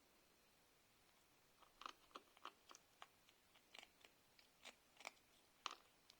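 Cat chewing food: a series of faint, irregular crunches, starting a couple of seconds in.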